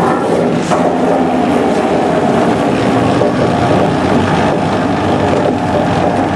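A boat's engine running steadily under way.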